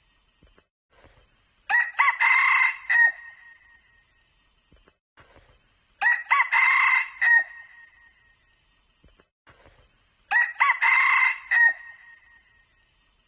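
Red junglefowl crowing three times, about every four seconds, each crow about a second and a half long and ending abruptly.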